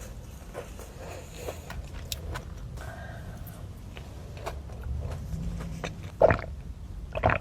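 A person eating: small scattered clicks of chewing and handling food over a low steady rumble, with two louder crunches or bites near the end.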